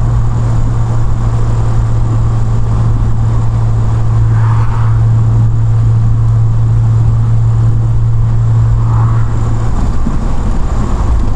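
Triumph Vitesse Mk2's two-litre straight-six engine running steadily at a constant cruising speed, a loud low drone that holds its pitch, with road noise underneath.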